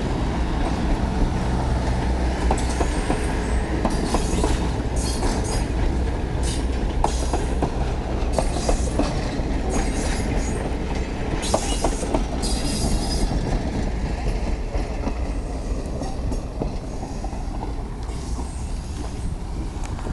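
Steam excursion train's cars rolling by on the track: a steady rumble with wheels clicking over the rail joints. High-pitched wheel squeal comes and goes through the first half or so, and the rumble eases a little near the end.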